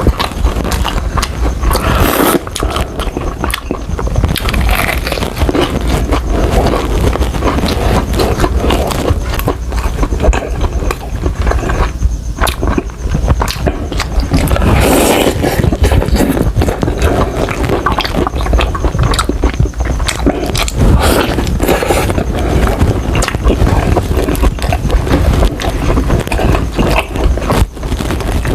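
Close-miked eating of crispy fried chicken: continuous chewing and crunching of the breaded skin, with dense irregular crackles and wet mouth sounds.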